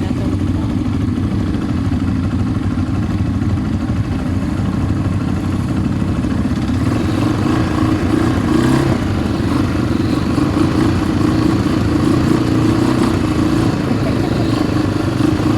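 ATV engine running steadily with a low, continuous drone, a little louder in the second half.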